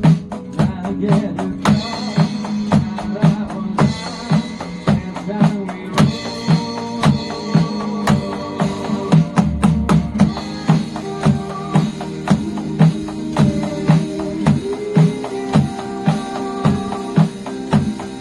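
A drum kit played along to a Korean pop-rock song with singing, keeping a steady beat.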